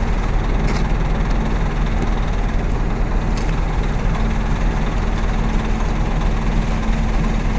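MAN truck's diesel engine running steadily with a low, even hum, with a few faint clicks in the first few seconds.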